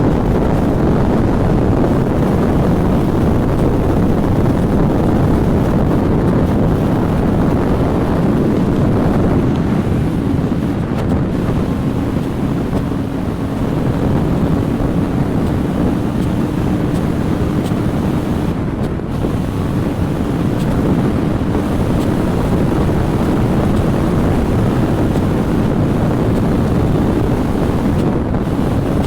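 Wind rushing over a motorcyclist's helmet microphone at road speed, a steady loud noise, with the motorcycle's engine note faintly showing through in the middle.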